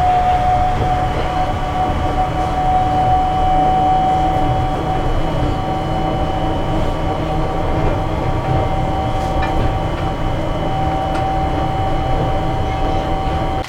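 Seibu 8500-series Leo Liner running, its Hitachi IGBT-VVVF inverter giving a steady high tone over a low running rumble. The sound cuts off suddenly at the end.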